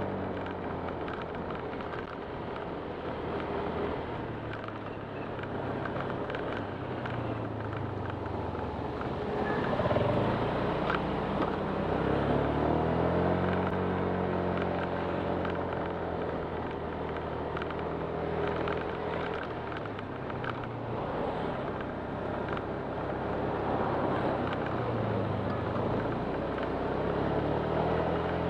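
Honda Click 125 scooter's single-cylinder engine running under way, its pitch dropping and climbing again several times as the throttle is eased off and opened, over a steady rush of noise.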